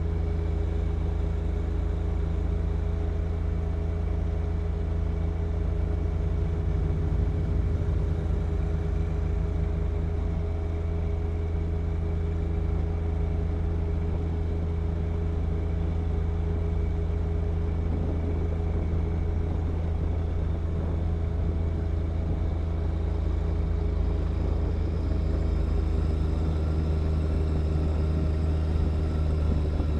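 John Deere 1025R compact tractor's three-cylinder diesel engine running steadily, powering a snow blower clearing wet snow; the engine note shifts slightly near the end.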